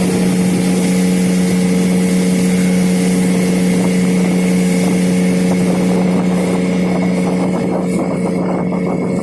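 Johnson 8 hp outboard motor running at a steady high speed, pushing an inflatable boat along at about 30 km/h, with the noise of the hull on the water.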